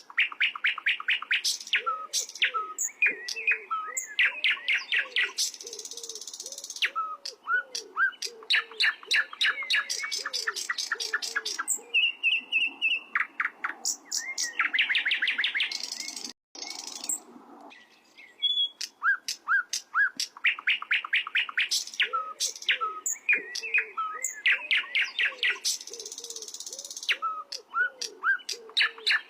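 Sikatan londo singing a loud, busy song of rapid trills and repeated high chirps, with a softer series of low curved notes underneath. A short gap about sixteen seconds in breaks the song before it starts again.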